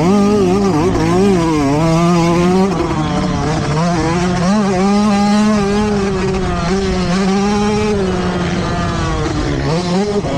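Motocross bike engines racing, the pitch rising and falling over and over as the riders work the throttle and shift gears.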